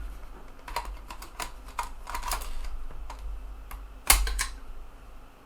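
Small clicks and taps from a 3.5-inch floppy drive being handled, with one louder click and thump about four seconds in.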